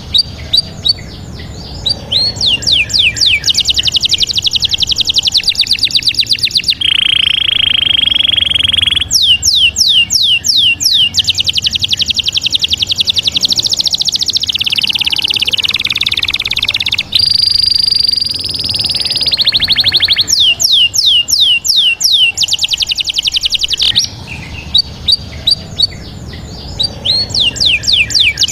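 A songbird singing loudly: fast series of falling chirps and dense trills, with one steady held whistle partway through.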